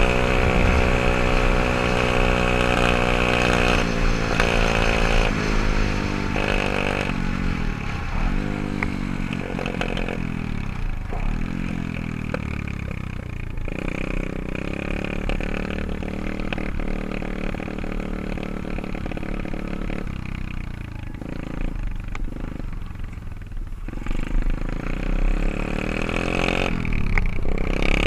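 124cc pit bike engine running, its pitch rising and falling repeatedly as it is throttled on and off, steadier for a while, then picking up again near the end.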